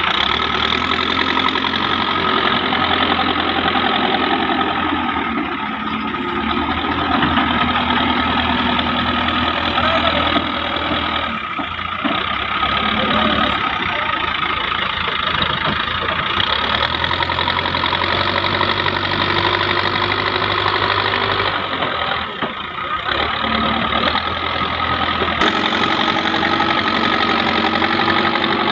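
Diesel engines of a backhoe loader and a farm tractor running and idling under load. The sound breaks off and changes abruptly several times.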